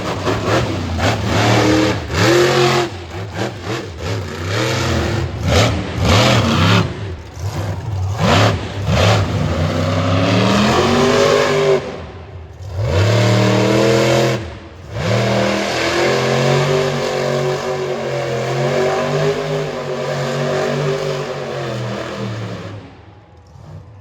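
Monster truck engine revving hard in quick bursts, then held at high revs in longer pulls with a couple of brief lifts off the throttle, fading out near the end.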